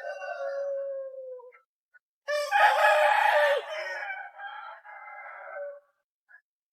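Rooster crowing twice: a shorter crow ending on a falling note, then a longer, louder crow about two seconds later.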